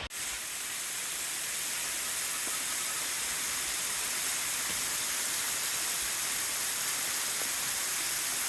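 Steady hiss of rushing water, even and unbroken, strongest in the high range.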